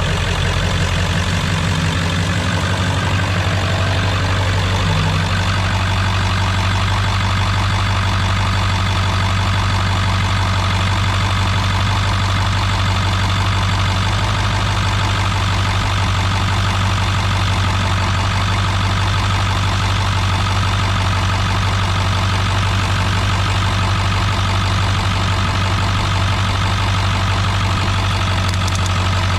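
Ford 7.3 Power Stroke V8 turbo-diesel in a 2000 F-250 idling steadily just after being started, settling into an even idle within the first few seconds.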